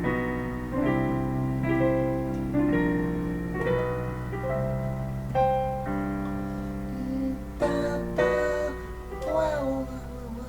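Keyboard piano playing the introduction of a blues song: full chords struck about once a second and left to ring, one held longer in the middle. Near the end a voice starts humming a sliding tune.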